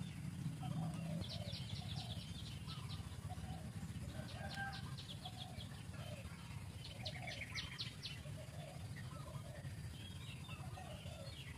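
Birds calling in the background: soft short calls repeat about once a second, and rapid high trills come in three bursts, over a steady low rumble.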